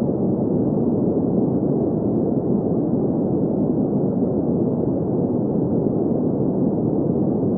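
Green noise played as a sleep sound: a steady, even rushing hiss with its weight in the low and middle pitches and no treble.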